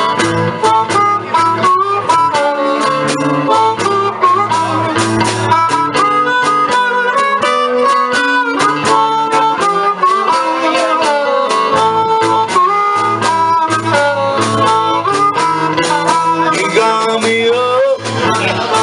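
Live blues played on harmonica and guitar: the harmonica plays a solo line with bent notes over steady guitar strumming and a bass line.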